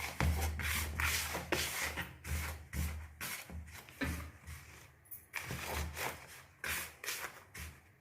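Dry cornmeal and cornstarch being mixed and rubbed together in a bowl: a gritty rubbing that comes in repeated strokes, about two a second.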